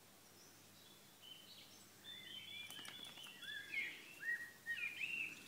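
Birds singing: a run of short, high chirping whistles that starts about a second in and grows louder toward the end.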